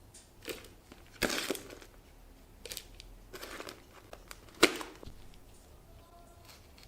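Crinkling, crunching handling noises in a few separate bursts: a longer loud crinkle about a second in and a sharp crunch near five seconds, then it goes quiet.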